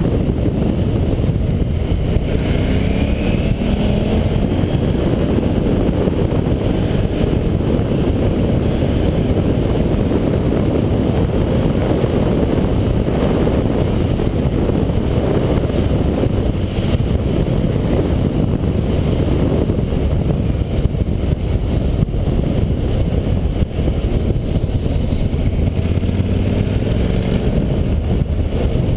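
A KTM 990 SM's V-twin engine running on the move, with heavy wind rush on the microphone; the engine note rises about two seconds in and again near the end.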